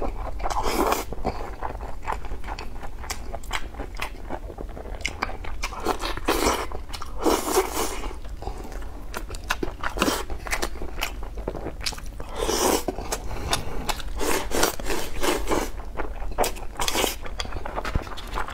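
Close-miked chewing and eating of rice with minced meat: wet mouth sounds as mouthfuls are bitten and chewed, with many short sharp clicks and several louder rushes of noise scattered through.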